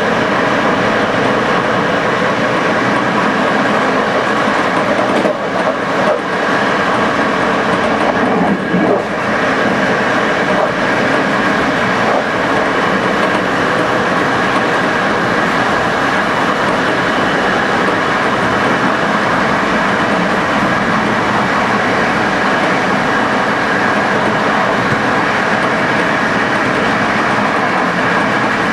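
Passenger train running along the track: a steady, loud rumble of wheels on rail with some clickety-clack, briefly dipping about five and eight seconds in.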